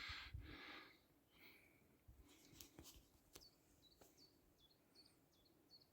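Faint songbird calling in the distance: a string of about eight short, high chirps, each dropping in pitch, over quiet outdoor background.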